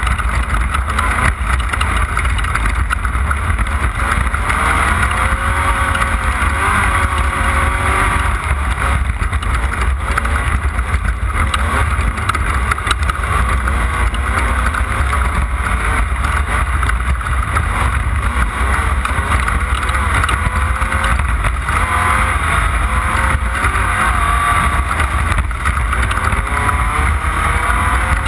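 Off-road race car's engine running hard, its pitch rising and falling with the throttle over a heavy, steady low rumble.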